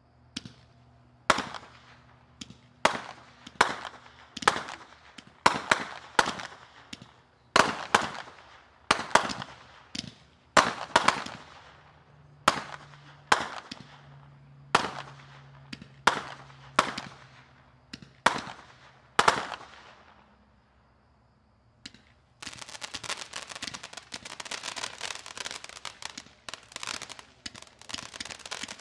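Winda Patriotic Sky Buster 500 gram fireworks cake firing: a long run of sharp bangs, about two a second, each ringing briefly. After a short lull about twenty seconds in, a dense crackling sets in and carries on, typical of crackling-tail shots.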